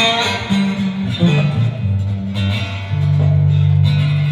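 Solo blues guitar playing a short instrumental fill. It opens with a sharp strummed chord, then plays picked notes over held low bass notes.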